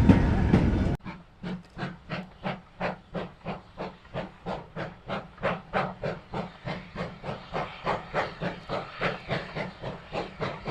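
A loud train going by cuts off about a second in. Then a steam locomotive works steadily, its exhaust beats evenly spaced at about three a second.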